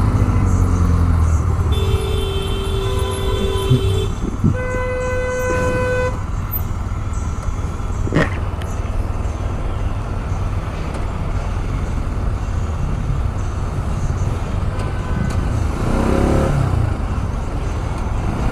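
Vehicle horns honking in stopped city traffic: one held horn blast about two seconds in, then a second, higher-pitched horn a couple of seconds later, over the steady low rumble of the motorcycle's engine and surrounding traffic. Near the end an engine revs up and back down.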